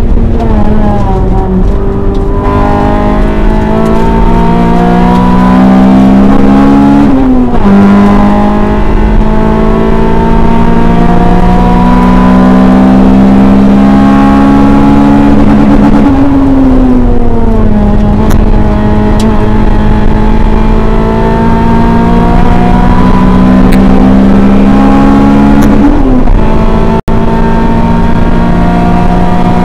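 Honda EK9 Civic Type R's 1.6-litre VTEC four-cylinder heard from inside the cabin, running hard at high revs under full throttle. The revs climb steadily and fall back three times, about 7, 16 and 26 seconds in, with a brief dropout in the sound just after the last one.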